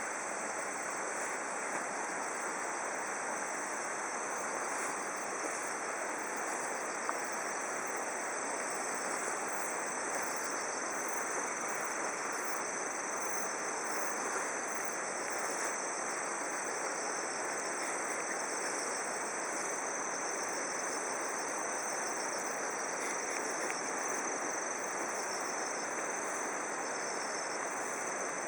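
Insects, crickets by the sound, trilling steadily in several high, unbroken tones over an even background hiss.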